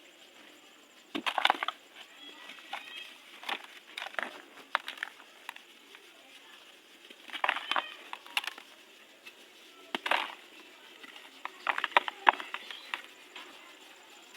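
Dry, dusty, crunchy material crumbling in a tub, in short bursts of crackling crunches with pauses between. The loudest burst comes near the end.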